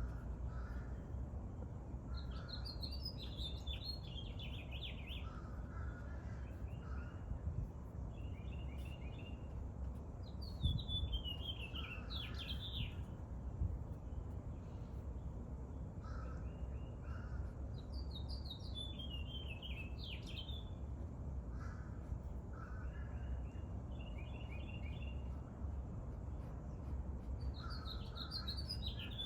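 Songbirds singing: a descending phrase of whistled notes about every eight seconds, with short trills and lower chirps in between, over a faint steady low background noise.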